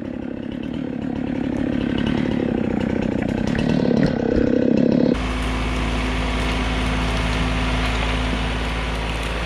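Two-stroke chainsaw running, growing louder over the first few seconds. About five seconds in the sound cuts abruptly to a steadier engine drone with a deep hum.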